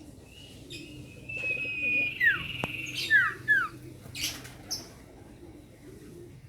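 Sirtu (an iora) singing: one long high whistle, then three quick down-slurred whistled notes, followed by two short rasping notes.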